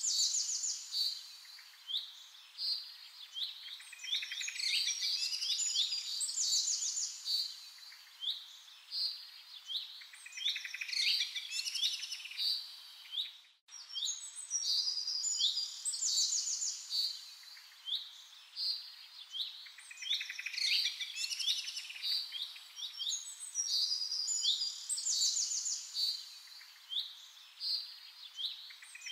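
Several small songbirds chirping and singing in short, overlapping high phrases and trills over a faint steady hiss. About halfway through the sound briefly cuts out, and the same stretch of birdsong starts again, as in a looped recording.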